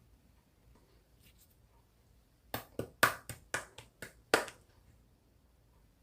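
Slime being pressed and worked by hand, giving a quick run of about eight sharp popping clicks over two seconds, starting about two and a half seconds in.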